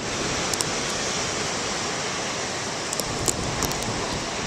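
Heavy storm surf from a nor'easter breaking and washing on the shore: a steady rush of noise with no let-up.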